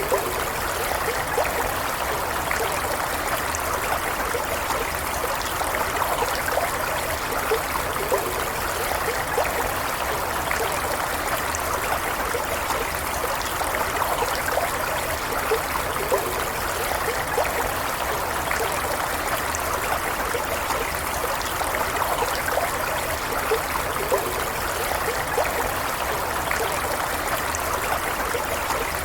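Running stream water flowing and trickling steadily, with lots of small splashes and bubbles.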